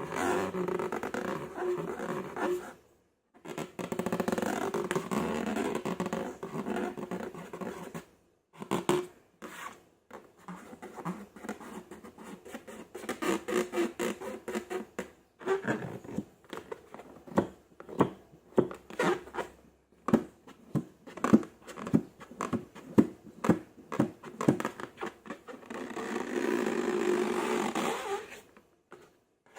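Slime being squeezed and worked by hand: long wet squelching stretches, and in the middle a run of many sharp sticky clicks and pops.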